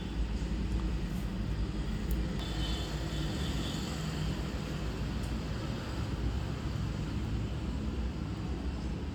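Steady low background rumble with a couple of faint small clicks.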